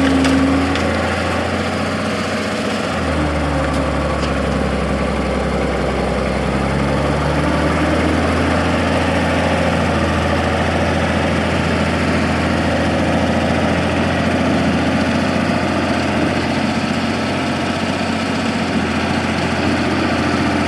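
Fiatallis AD7B crawler tractor's diesel engine running steadily while working, its low note shifting a little about three and seven seconds in.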